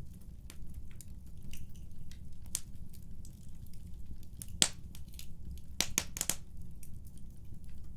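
Wood fire crackling: irregular sharp pops and snaps over a steady low rumble of burning, with a loud pop about halfway through and a quick cluster of snaps a second or so later.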